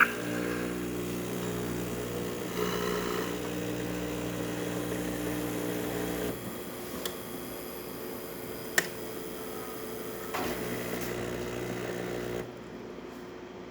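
Saeco super-automatic espresso machine working through its brew cycle: a motor hums steadily for about six seconds, a couple of sharp clicks follow, the second one loudest, then a motor runs again for about two seconds and stops.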